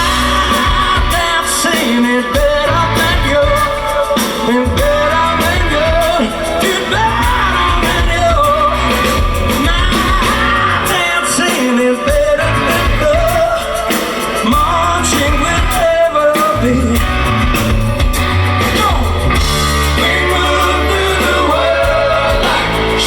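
A rock band playing live in a large hall, loud and steady, with a singing voice over the band.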